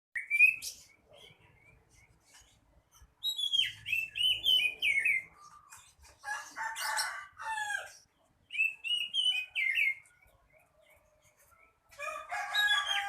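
Oriental magpie-robin (kacer) singing in separate bursts of varied, warbling whistled phrases. Harsher, fuller calls come about six seconds in and again near the end.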